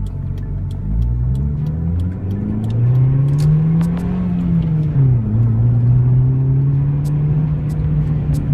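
Honda Fit's four-cylinder engine through a Magnaflow cat-back exhaust, rising in revs under acceleration for about four seconds. About five seconds in the revs fall sharply at an upshift of the five-speed manual, and the engine then runs steadily.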